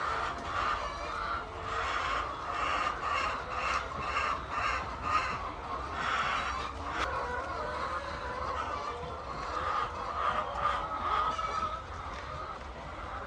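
Chickens clucking in a run of short repeated calls, about two a second for a few seconds, then more scattered calls.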